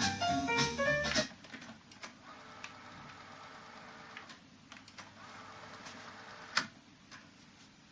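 Piano jazz playing back on a Sony TC-K222ESG cassette deck stops about a second in. The deck's tape transport then clicks several times and whirs softly, with one louder click about two-thirds of the way through.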